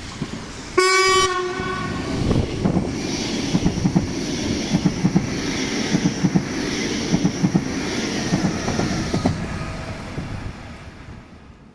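Deutsche Bahn Intercity 2 double-deck push-pull train sounding its horn once, a single steady note of about a second, about a second in. It then runs past with a steady rumble and rhythmic clacking of wheels over the rail joints as the coaches go by, fading away near the end.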